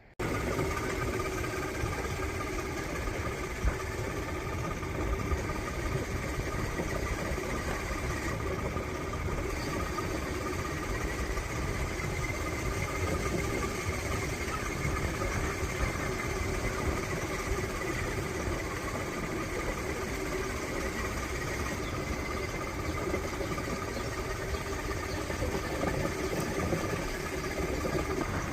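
An engine running steadily at an even speed: a constant hum with a few held tones over a low rumble. It begins and ends abruptly.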